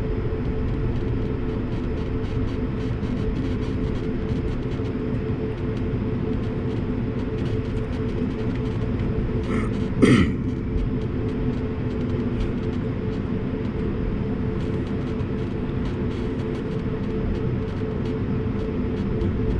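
Airbus A220-300 cabin noise: the steady drone of its Pratt & Whitney geared turbofan engines and airflow, with a constant hum. About ten seconds in there is one brief, louder sound with a quick falling pitch.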